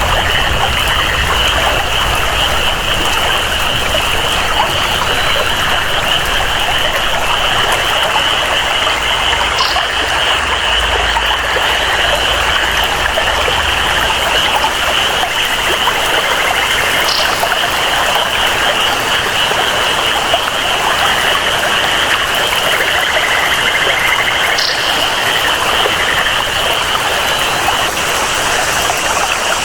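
Rainforest ambience: steady rain and flowing water under a constant high-pitched chorus of frogs and insects, with a short high call three times, about seven seconds apart.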